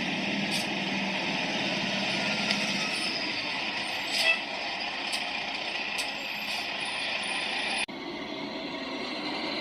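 Steady hiss of vehicle noise from outdoor traffic, with a few short faint clicks; the sound changes abruptly at an edit about eight seconds in.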